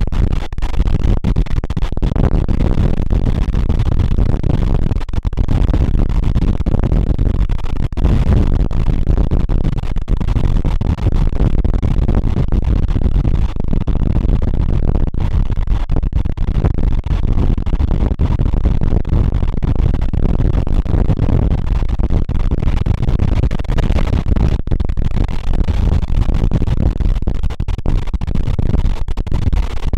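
Passenger carriage of a moving train on the rails: a loud, steady rumble with constant irregular rattling and clatter.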